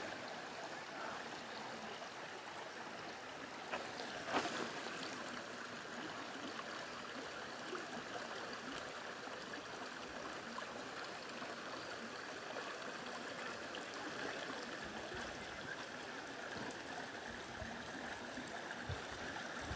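Steady rush of flowing water from a stream and small waterfall, with a short sharp click about four seconds in.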